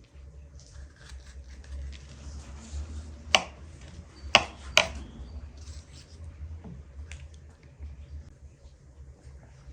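Kitchen utensils handled during food preparation: scattered light clicks and taps of a knife on a cutting board, with three sharper knocks in the middle.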